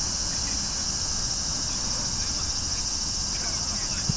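Insects chirring steadily in a continuous high-pitched pulsing drone, with faint distant voices.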